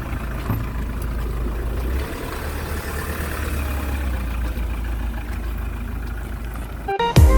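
A steady low rumble, then music cuts in abruptly near the end.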